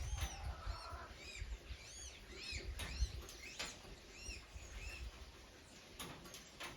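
Small birds chirping, a quick run of short arched chirps repeating throughout, with a low rumble in the first second and a few sharp clicks near the end.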